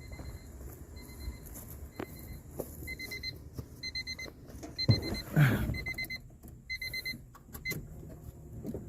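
Honda Civic's dashboard warning chime beeping steadily, about one beep a second, growing louder about three seconds in. A short louder falling sound and a few clicks come around the middle.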